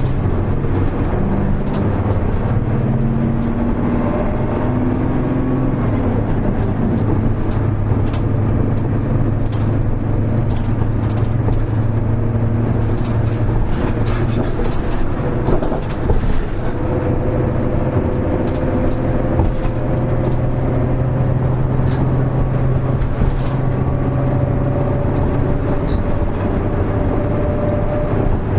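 Diesel engine of a KL-HR1JNEE route bus heard from inside the cabin while the bus is under way. The engine note rises in pitch over the first few seconds, changes around the middle, then holds steady through the rest, with light clicks and rattles scattered throughout.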